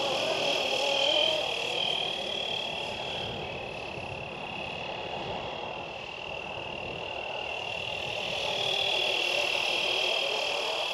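Fly Wing 450L electric RC helicopter in flight, its motor and rotors giving a steady high whine. The whine fades through the middle and grows louder again near the end, with a lower wavering tone dying away in the first second or two.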